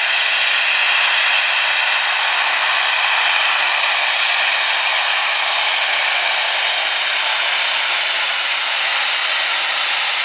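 Super stock pulling tractor's turbocharged diesel engine running loud and steady, without a break.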